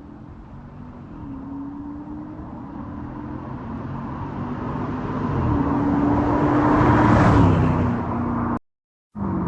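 A 2006 Dodge Charger R/T's 5.7 L Hemi V8 with the mufflers deleted, driving toward and past, its exhaust note stepping up in pitch and growing steadily louder to a peak about seven seconds in. Near the end the sound cuts out for about half a second, then the engine is heard running again.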